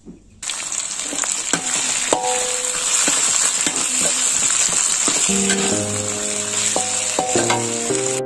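Chili paste, shallots and aromatic leaves sizzling in hot oil in a wok, starting abruptly about half a second in, while a metal spatula stirs and scrapes against the pan. Background music comes in about five seconds in.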